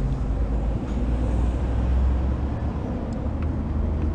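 2003 Acura TL's 3.2-litre V6 idling steadily as a low rumble, with a couple of faint light clicks about three seconds in.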